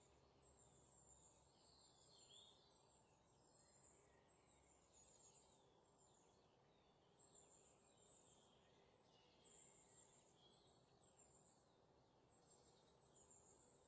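Near silence, with faint high bird chirps now and then.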